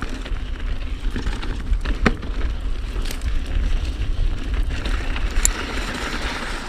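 Ibis Ripmo mountain bike being ridden down a trail: heavy wind rumble on the microphone, tyres rolling over dirt and scattered rattles and clicks from the bike. A brighter rolling hiss comes in about five seconds in.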